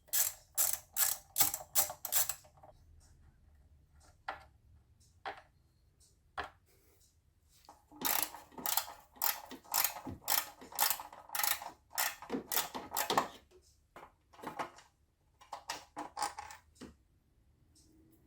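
Ratchet wrench clicking in quick back-and-forth strokes, working out the timing belt cover bolts, in runs of rapid clicks with pauses between.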